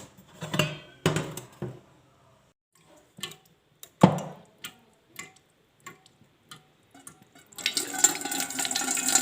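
A few scattered clicks and knocks. Then, near the end, water starts running steadily from a homemade electric water heater's PVC outlet pipe into a wash basin as the inlet tap is opened, releasing the freshly heated water.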